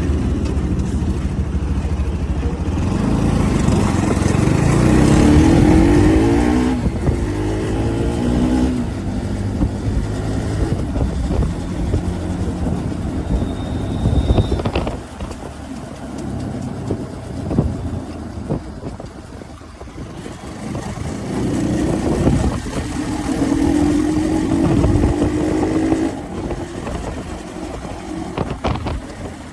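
Motorcycle engine running and accelerating twice, its pitch rising each time, with road noise between. A brief high tone sounds about 14 s in.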